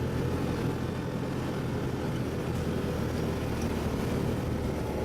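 ATV engine running at a steady speed, with a constant low hum and rumble.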